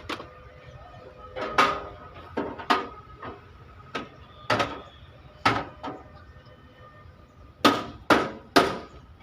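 Hammer blows on steel truck body sheet metal during dent repair: about a dozen irregular strikes, some with a short metallic ring, ending in three quick blows near the end.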